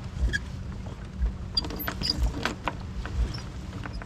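Sounds aboard a racing sailboat under way: low thumps about once a second, with a cluster of clicks and small squeaks around the middle, like blocks and rigging working.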